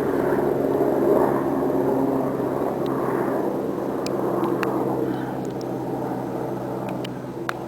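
Helicopter running: a steady hum of engine and rotor tones over a rushing wash, loudest about a second in and slowly easing off.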